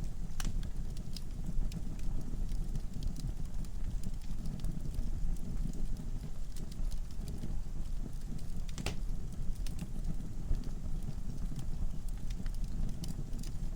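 Wood fire burning in a fireplace: a steady low rumble of flames with scattered crackles and pops, one louder pop about nine seconds in.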